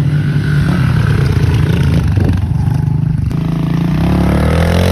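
Small 110cc single-cylinder four-stroke pit bike engine revving under throttle. The high end drops away briefly midway, then the engine climbs in pitch again near the end as the rider goes at a gap jump.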